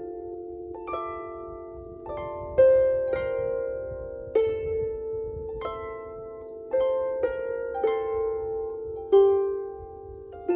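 Harp played slowly, single plucked notes in a gentle melody, each note left to ring and fade before the next, about ten notes.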